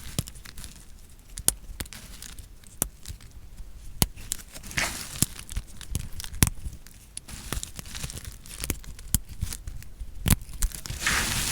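A knife cutting through dry soap, giving many sharp, crisp crunching cracks. There is a longer crumbling scrape about five seconds in and again near the end.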